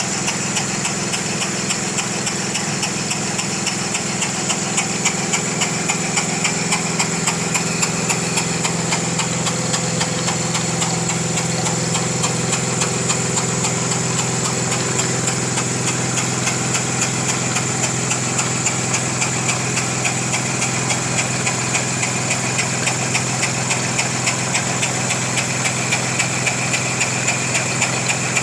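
Small educational model steam engine running steadily: a fast, even mechanical beat over a steady hiss.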